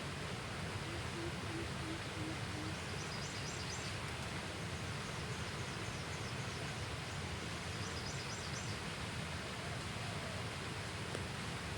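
Steady outdoor ambience with a low, even hiss. Near the start a short run of about six low hooting notes, falling slightly, and twice a brief cluster of high chirps.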